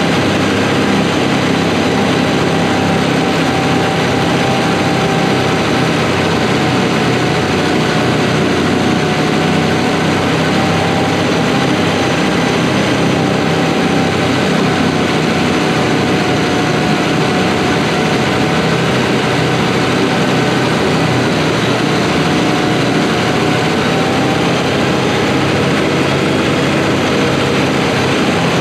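Farm tractor engine running steadily at a constant working speed, with no change in pitch or load.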